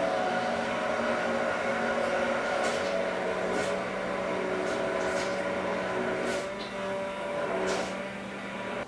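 Microwave oven running with a steady hum, heating a batch of shea butter and coconut oil conditioner.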